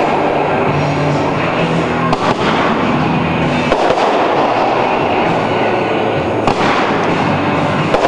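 Fireworks display going off in a dense, continuous barrage of crackling with a few sharper bangs mixed in.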